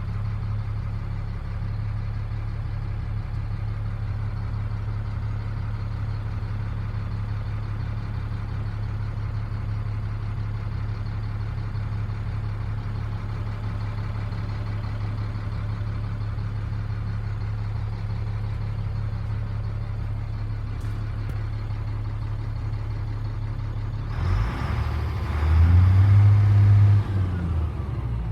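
Diesel engine of a 1997 Freightliner truck idling with a steady low hum. About three quarters of the way in, a louder rush lasts a few seconds and the engine pitch rises and falls once, as in a brief rev, before it settles back to idle.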